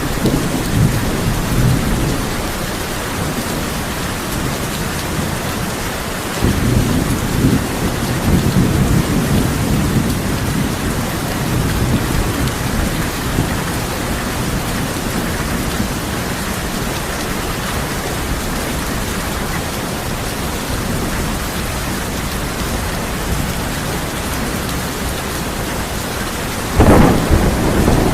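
Steady heavy rain falling on a tin roof, with low rolling thunder at the start and again from about six to twelve seconds in. A louder, sharper thunderclap comes near the end.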